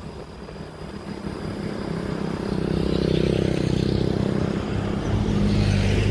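Diesel locomotive approaching, its engine drone growing steadily louder.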